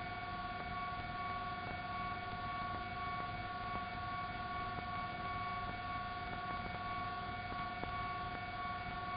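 Police helicopter cabin noise: a steady whine of several held tones over an even hiss from the turbine and rotors.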